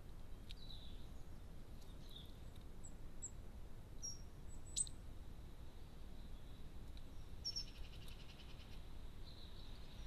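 Faint, scattered high chirps of small songbirds over a low steady rumble, with a sharp click a little before halfway and a quick run of repeated notes about three-quarters of the way through.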